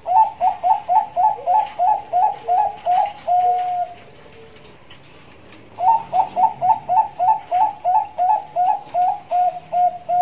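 Bangkok-type zebra dove (perkutut) singing two phrases, each a fast run of short coos, about three to four a second, ending in a longer held coo, with a pause of about two seconds between phrases.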